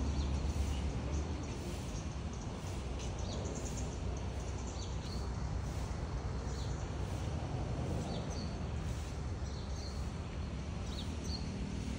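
Birds chirping in short, repeated high calls over a steady rushing background noise.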